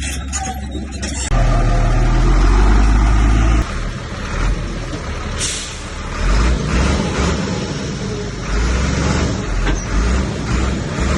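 Heavy diesel earth-moving machinery working: a deep engine rumble that rises sharply about a second in, holds for a couple of seconds, then drops back and keeps varying with load. A brief hiss comes about five seconds in.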